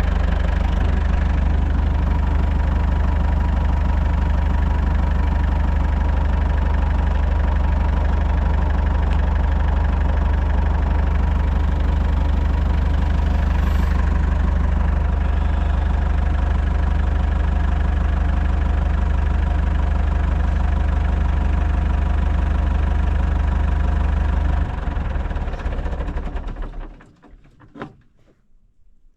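Tractor engine running steadily, then winding down and stopping about 25 seconds in.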